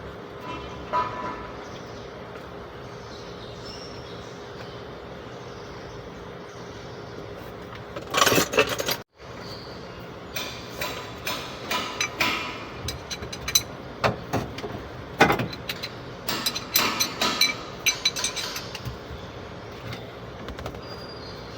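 Scattered sharp metallic clicks and knocks of hand tools at work on a truck's brake master cylinder, over a steady background hum, with a brief louder burst about eight seconds in.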